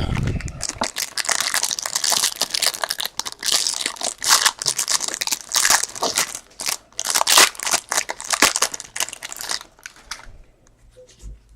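Plastic trading-card packaging crinkling and tearing as it is handled and pulled open. This goes on continuously for about ten seconds, then gives way to a few faint clicks near the end.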